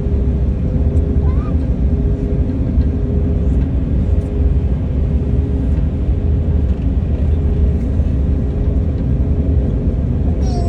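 Steady low rumble of a moving train heard from inside the carriage, with a constant hum over it.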